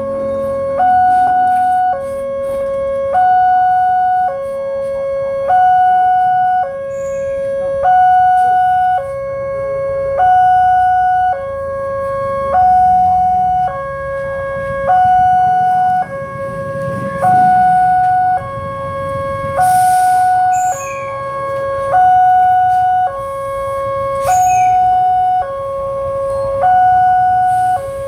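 Railway level-crossing warning alarm sounding its two-tone signal, alternating between a lower and a higher tone about once a second, warning of an approaching train. Road traffic rumbles underneath, swelling once past the middle.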